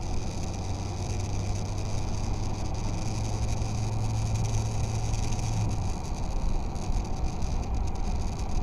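Steady motor-vehicle running noise, engine and road rumble, with a low steady hum that drops away about six seconds in.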